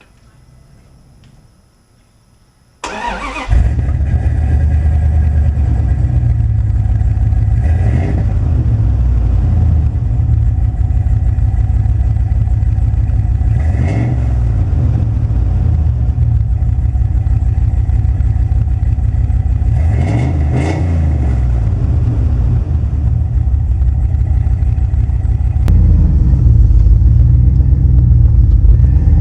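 1997 Dodge Dakota's 318 V8, breathing through headers and a home-made 3-inch exhaust, starts about three seconds in and settles into a loud, low idle. It is revved briefly three times, at roughly six-second intervals.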